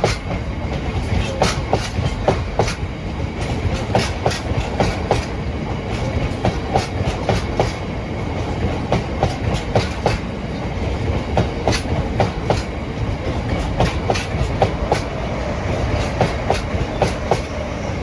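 Freight train wagons rolling past, their wheels clicking over rail joints again and again above a steady rumble.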